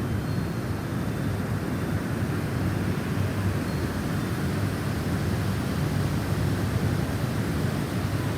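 Snowstorm wind blowing steadily, a deep rushing noise heaviest in the low range.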